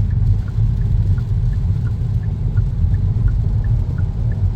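Steady low road and tyre rumble inside a Kia Niro's cabin as it rolls along without accelerating, with the hazard-light indicator ticking about two to three times a second.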